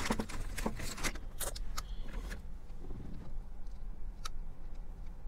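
Close-up eating of a crispy fried chicken wing: sharp crunches of the battered skin and chewing, thick in the first couple of seconds, then only a few, over a steady low hum.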